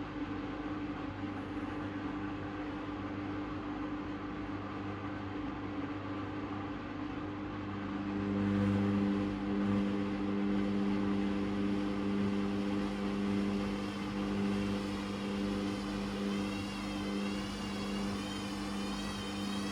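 Hoover Custom Vision washing machine running with a steady mechanical hum. About eight seconds in, a louder motor hum comes in, and near the end a high, wavering whine rises over it.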